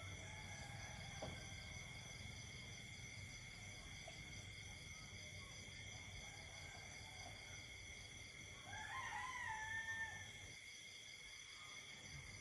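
Night insect chorus trilling steadily at several high pitches throughout, with a rooster crowing once near the end, a rising then held call of about a second and a half.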